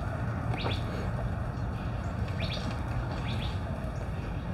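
Small birds chirping: a handful of short, high, falling chirps spaced a second or so apart, over a steady low background rumble.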